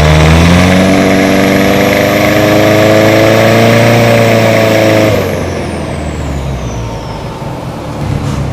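Turbocharged Toyota 1KD-FTV 3.0-litre common-rail diesel at full throttle, its engine note rising for about five seconds with a high turbo whistle climbing above it. About five seconds in the engine drops away sharply and the whistle falls in pitch as it fades.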